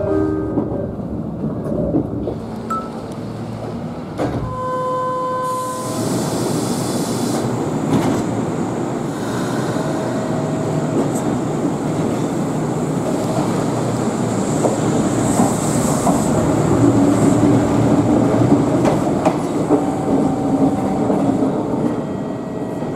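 Electric train running on the rails. From about five seconds in, the Kintetsu Blue Symphony sightseeing express (16200 series) runs past close by along the platform as it pulls out, with a thin high whine above the rumble of wheels and motors.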